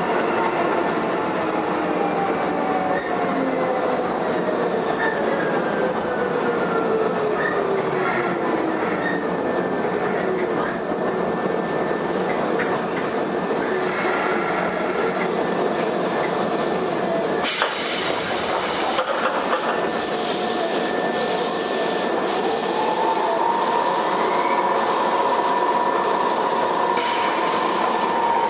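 Riding sound inside a Keisei 3500-series train car: traction-motor whine falls in pitch over the first ten seconds as the train slows for a station, over wheel-on-rail rumble. A loud clatter comes about two-thirds in, and near the end a new hum rises and holds a steady pitch.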